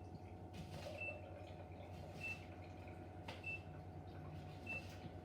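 A short, high electronic beep repeating evenly about every second and a quarter over a steady low hum, with a couple of faint knocks.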